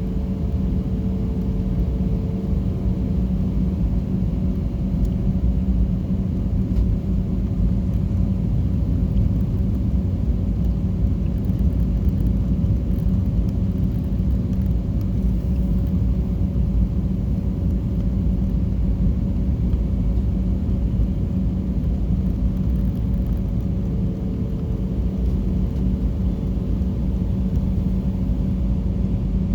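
Airliner cabin noise: a steady low rumble of engines and airflow with a constant hum running through it.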